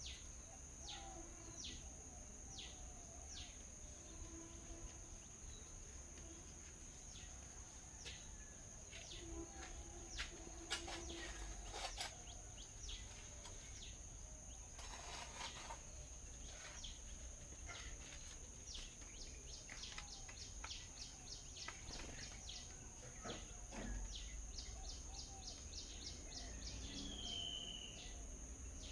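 Small birds chirping sporadically and faintly, in short sharp down-sweeping chirps, over a steady high-pitched drone and a low background rumble.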